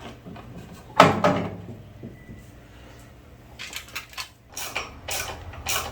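Metal parts clanking and clinking as they are handled: one loud clank about a second in, then a quick run of lighter clinks over the second half.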